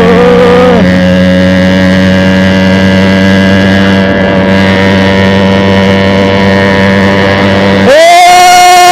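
TVS Max 100R's single-cylinder two-stroke engine running loud and steady through a broken, holed silencer. The engine pitch drops back about a second in. Just before the end the engine is revved sharply up, held high, and then falls away.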